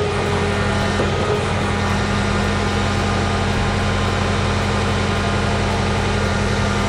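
A large engine running steadily at a constant speed, with a low, unchanging hum.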